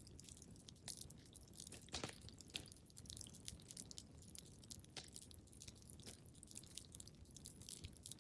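Wood fire crackling in a fireplace: irregular small pops and snaps over a low rumble, with a louder pop about two seconds in.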